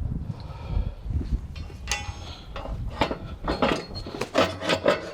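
Steel pallet fork tines being taken off the fork frame: a run of metal clanks and clinks, some ringing, over a low rumble in the first couple of seconds.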